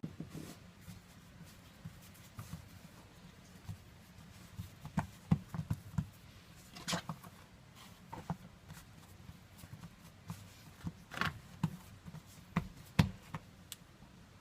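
Kitchen handling noises: scattered light taps and knocks at an irregular pace, a few sharper ones in the middle and near the end.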